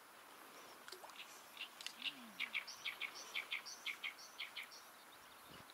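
A songbird singing: a run of short, sharp notes repeated about four or five times a second for roughly three seconds, some with a quick upward flick, over a faint outdoor hiss.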